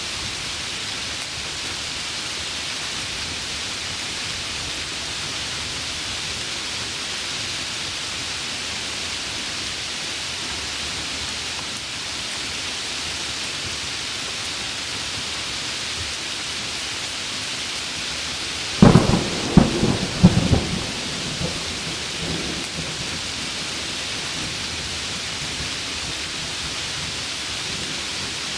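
Heavy rain falling with a steady hiss. Two-thirds of the way through, a close thunderclap cracks several times in quick succession over a second or two, then rumbles away.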